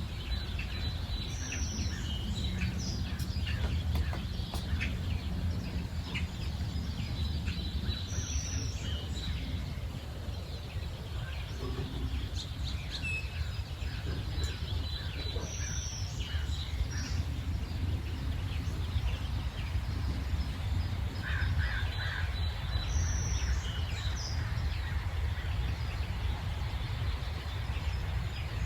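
Several birds chirping and calling, one short high call repeating about every seven seconds, over a steady low rumble of background noise.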